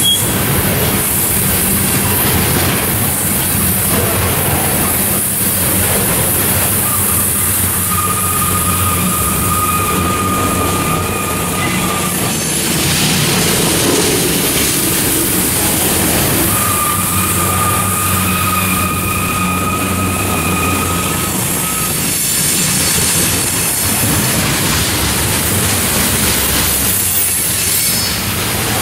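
Freight train of tank cars rolling past at track side, a steady rumble of wheels on rail. Twice a steady high-pitched squeal from the passing cars' running gear lasts about five seconds: once about seven seconds in and again about sixteen seconds in.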